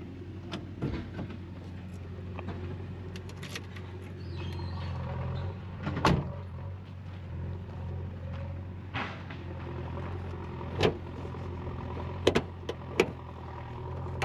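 The Mahindra Bolero's engine running steadily, heard from inside the cabin, with several sharp knocks and rattles over the hum. The loudest knock comes about six seconds in, and a cluster follows near the end.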